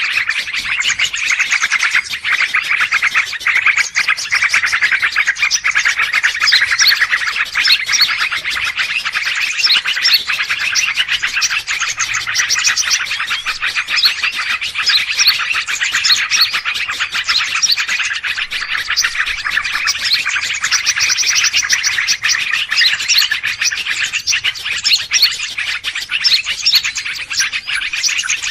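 Dense, busy chorus of many small birds chirping and twittering at once, without a break: a mixed-bird lure recording of the kind played to draw wild birds in for trapping.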